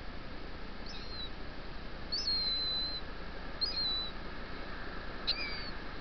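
Thin, high whistled bird calls, four of them: a short one, one held for about a second, another short one, and one near the end that drops in pitch. They sound over the steady hiss of surf.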